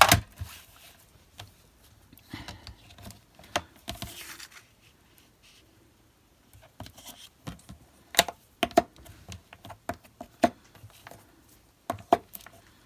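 Paper and craft supplies being handled on a desk: rustling and scraping of card, then several sharp clicks and taps as things are picked up and set down.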